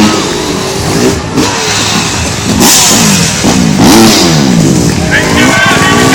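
Motorbike engine revving loud, its pitch rising and falling over and over in quick throttle blips.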